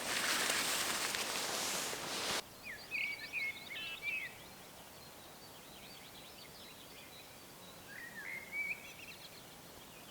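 A loud, steady rushing noise stops abruptly about two seconds in. Then a small songbird sings two short, quick, varied phrases, one straight after the cut and one near the end, over a quiet forest background.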